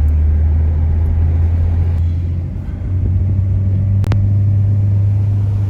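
Car driving, with a steady low engine and road rumble. The hum dips briefly about two and a half seconds in and comes back a little higher in pitch, and there is one sharp click near four seconds in.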